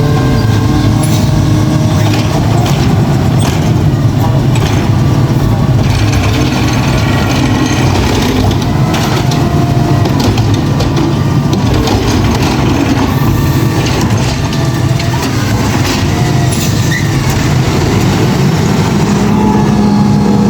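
Garbage truck running close by, its diesel engine droning steadily, with occasional squeals and short clanks.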